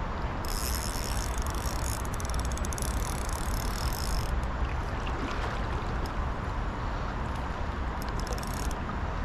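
Steady rush of river current, with a high buzzing ticking in two stretches, about half a second in for several seconds and again near the end.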